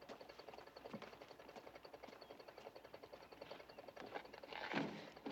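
Early motorcar's engine chugging at a steady, rapid, even beat as the car is driven, with a few sharper clicks. A louder rattle of noise comes about four and a half seconds in.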